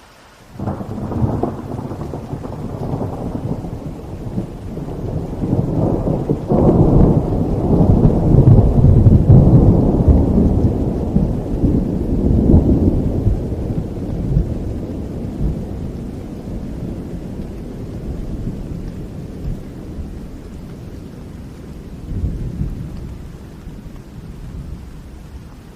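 A long roll of thunder over steady rain: it breaks in suddenly just after the start, swells to its loudest around a third of the way through, then rumbles on and slowly dies away, with one more swell near the end.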